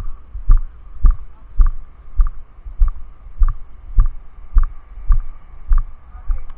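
Steady low thumps, a little under two a second, each with a faint click: the footsteps of someone walking, jolting a camera worn on the body.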